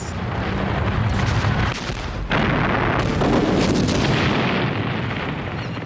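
Artillery barrage with explosions: a dense, rumbling wall of gunfire and blasts, with a sudden louder blast about two seconds in that carries on through the rest.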